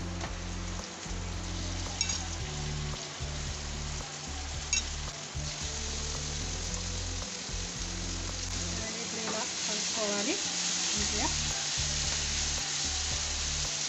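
Raw chicken pieces sizzling in hot oil and browned onions in a frying pan, stirred with a spatula. The sizzle grows louder over the second half, with a couple of light knocks about two and five seconds in.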